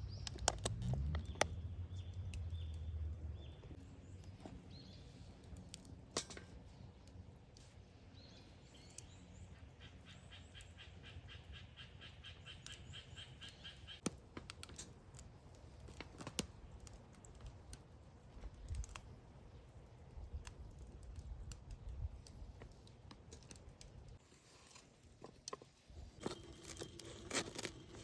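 Quiet outdoor ambience with scattered sharp clicks and crackles. In the middle comes a rapid trilling call lasting about four seconds.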